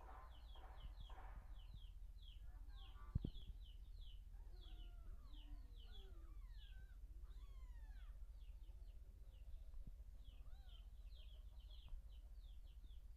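Small birds chirping steadily in the background, a run of many short, quick chirps with some slower gliding calls mixed in. A single sharp knock sounds about three seconds in.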